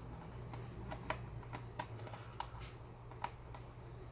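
Light, irregular clicks and taps of plastic as the HP laptop's case is handled and worked at, with a steady low hum underneath.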